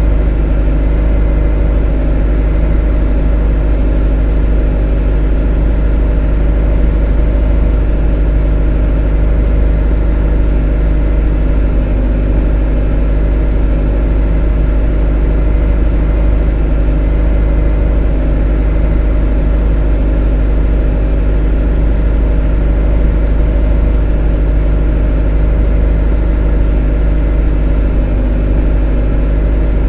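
A motor running at a constant speed, a deep, even hum with several steady tones above it, never changing.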